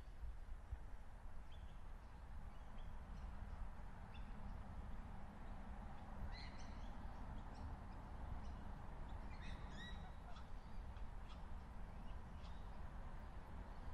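Outdoor park ambience: birds chirping and calling now and then, with two busier bursts of calls around the middle, over a steady low rumble.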